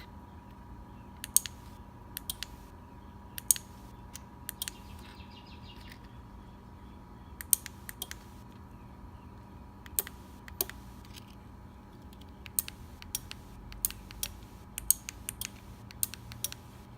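Sharp mechanical clicks at irregular intervals, some in quick clusters, from HomeLink buttons being pressed and the remote exhaust-valve relay switching, over a faint steady electrical hum.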